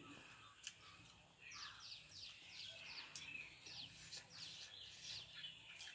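Faint bird chirping: a quick run of short, falling chirps, about three a second, starting about a second and a half in and fading after about three seconds, over quiet background.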